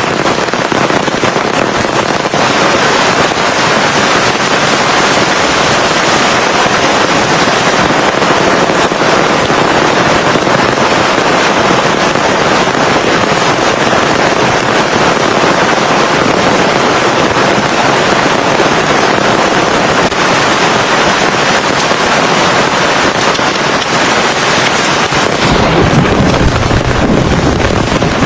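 Heavy rain pouring steadily, a loud dense hiss. Near the end a deep low rumble joins in.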